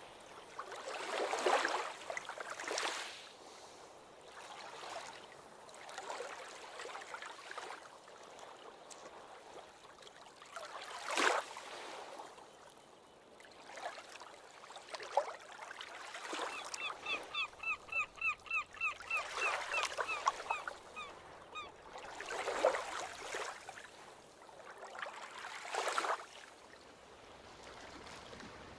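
Ocean waves washing in and breaking, one wash every few seconds. About halfway through, a bird gives a quick run of short, pitched calls lasting about five seconds.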